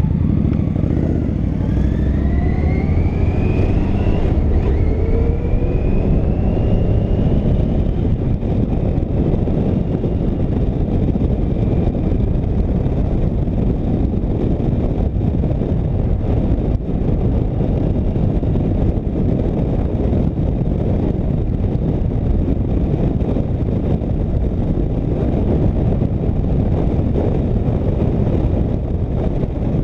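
Motorcycle accelerating: the engine's pitch rises, drops at a gear change about four seconds in, and rises again. It then settles into steady engine, wind and road noise at cruising speed.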